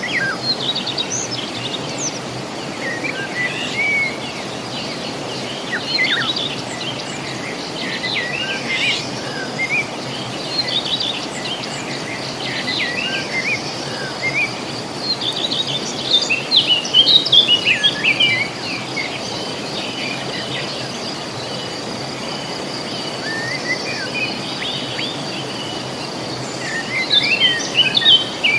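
Wild songbirds singing in repeated bursts of quick, twittering chirps and trills, busiest about halfway through and near the end. Behind them runs a steady, unbroken high-pitched insect drone over a background hiss.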